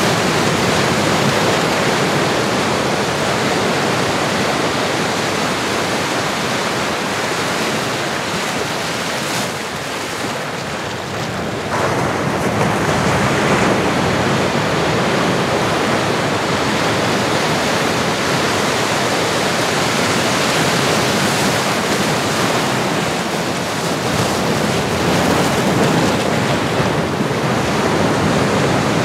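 Recorded ocean surf: a continuous rushing wash of waves, with a sudden step up in loudness about twelve seconds in.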